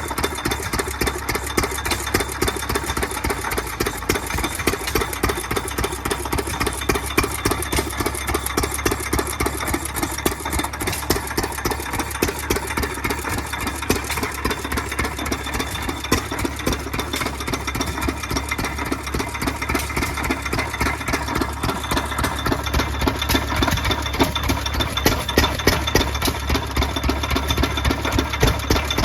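An engine running steadily with rapid, even firing.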